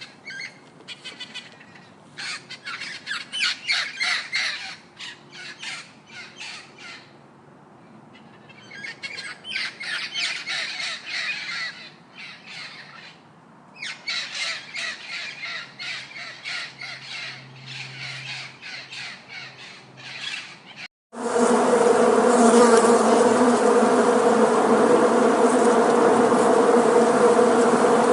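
An animal chattering in bursts of rapid, high squawks with short pauses between them. Then, after a sudden cut about three quarters of the way through, a steady, dense insect buzz like a swarm of bees.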